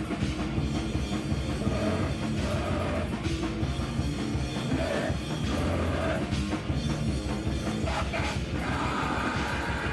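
A live rock band playing loud and continuously: distorted guitar and a drum kit in a dense, heavy wall of sound.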